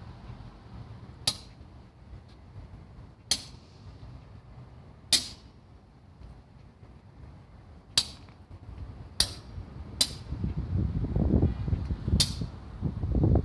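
A series of short, sharp clicks at irregular intervals, about seven in all, with a low, fluctuating rumble building up over the last few seconds.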